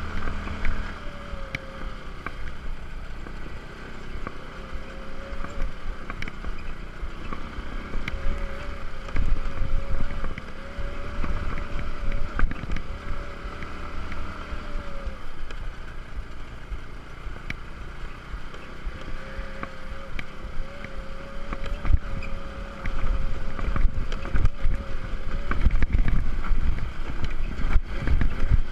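Small motor scooter engine running with a steady, slightly wavering whine as it rides a rough, sandy track, with wind buffeting the microphone and scattered knocks from the bumpy ground.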